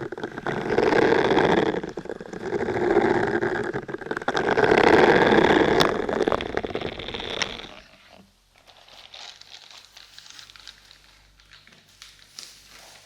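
Close-miked rubbing and crinkling noises rising and falling in slow swells about every two seconds, dropping to fainter scattered crackling about eight seconds in.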